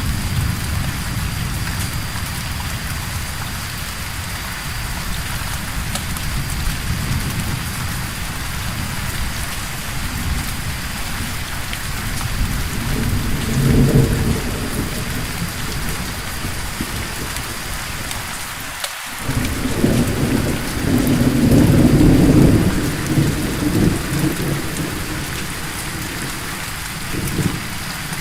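Steady heavy rain with rolling thunder. A low rumble swells about halfway through, and a longer, stronger rumble comes a few seconds later.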